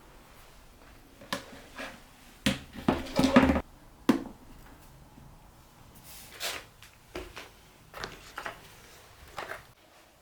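A series of irregular knocks and clatters from things being handled, the loudest a cluster of heavier thuds about three seconds in.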